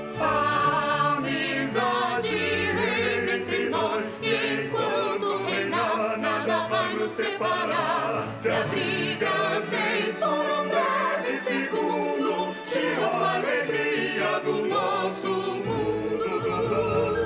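Choral music with singing voices over orchestral accompaniment.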